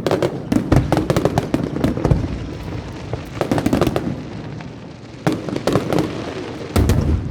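Aerial fireworks going off in rapid volleys of sharp cracks and deep booms, with short lulls between the volleys.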